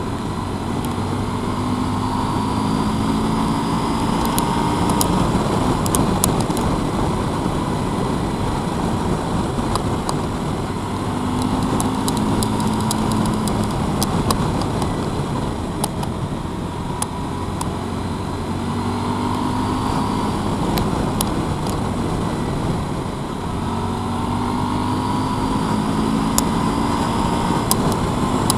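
Motorcycle engine running under way, its note rising and falling several times as it pulls and eases off, over steady road and wind rush.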